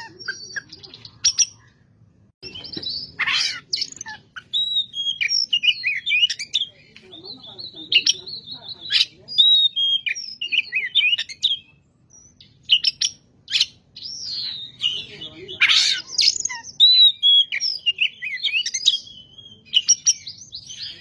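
Oriental magpie-robin (kacer) singing in full voice: a long, varied run of high whistles, trills and chirps with brief pauses. It is broken by short, loud, harsh calls about three seconds in and again near sixteen seconds.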